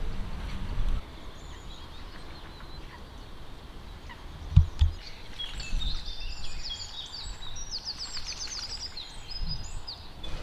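Small birds singing outdoors, with a quick run of high, rapidly repeated trilled notes over the second half. There is a low rumble in the first second, and two short low thumps come about halfway through.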